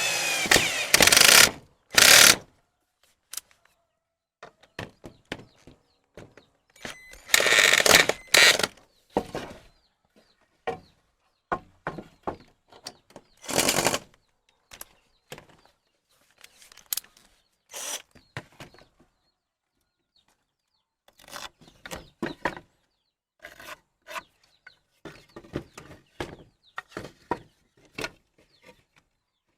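Intermittent knocks, clicks and scrapes of hand work with wood and tools, broken by a few short, loud noisy bursts about one, two, eight and fourteen seconds in.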